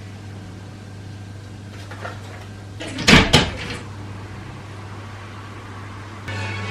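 Two sharp knocks in quick succession about halfway through, over a steady low hum; a different steady sound with a faint pitch starts near the end.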